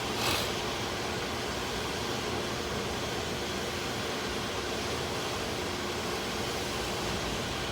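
Steady, even hiss and low rumble of a car idling, heard from inside the cabin, with a brief rustle just after the start.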